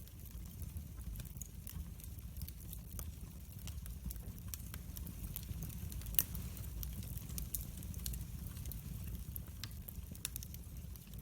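Wood fire in a fireplace crackling, with irregular sharp pops over a steady low rumble of the flames; the loudest pop comes about six seconds in.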